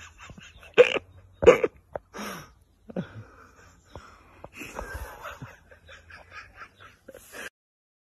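A dog gives two short, loud barks about a second in, followed by a few quieter sounds; the sound cuts off suddenly shortly before the end.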